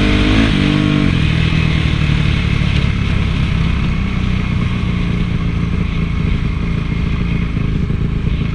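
Honda CRF450 motocross bike's single-cylinder four-stroke engine: its pitch drops as the throttle closes about a second in, then it runs steadily at low revs.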